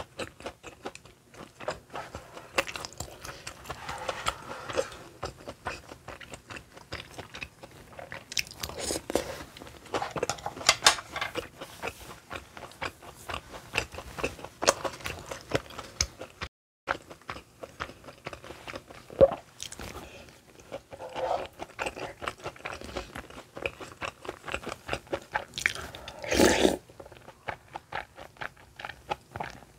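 Close-miked chewing and wet mouth sounds of eating rosé tteokbokki, chewy rice cakes in a creamy sauce, made up of dense irregular smacks and clicks. Chopsticks and a spoon knock against the pan now and then. There is a louder burst a little before the end.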